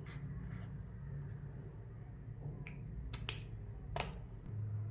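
A few short, sharp clicks over a steady low hum, two close together a little past three seconds in and another about a second later.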